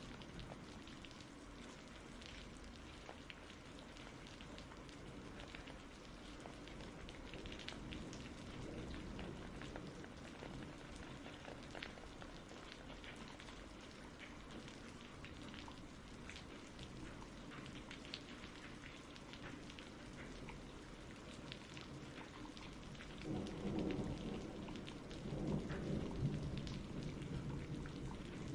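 Steady rain falling, with scattered drops pattering, and a low rumble of thunder swelling about three-quarters of the way through.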